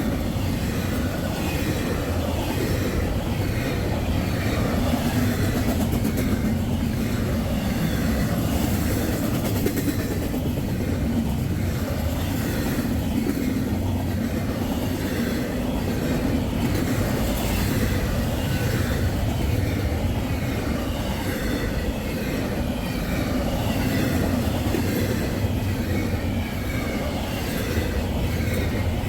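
Train rolling past: a steady rumble of steel wheels on the rails, with clickety-clack from the rail joints.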